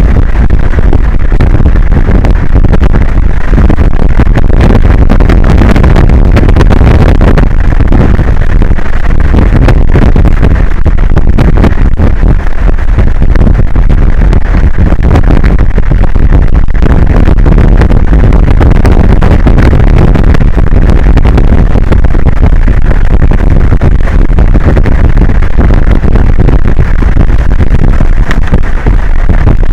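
Loud, steady rush of wind buffeting an exposed outdoor microphone, heavy in the low rumble and overloading the recording.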